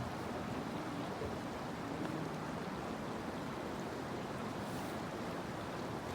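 River water rushing steadily through a channel cut in heaped snow.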